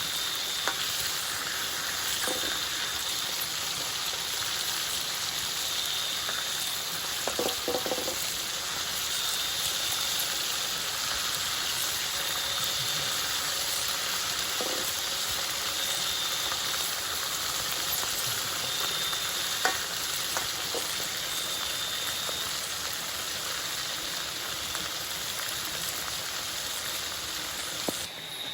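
Steady hiss, with an insect calling in short, high-pitched trills about every two to three seconds and a few faint knocks.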